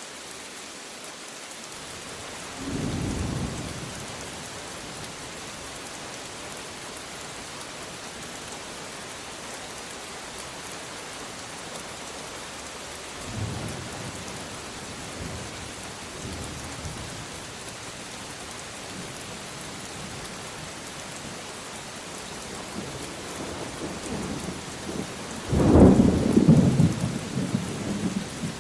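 Steady heavy rain hissing, with thunder rumbling low twice, a few seconds in and about halfway through, then a much louder, longer peal of thunder near the end.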